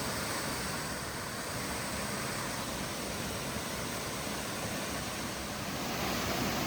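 Waterfall pouring into a pool, a steady rush of falling water that grows a little louder near the end.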